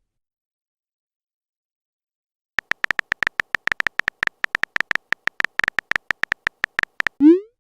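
Rapid, irregular clicks of a phone keyboard typing sound effect, starting about two and a half seconds in and running for about four and a half seconds, then a quick rising swoosh near the end.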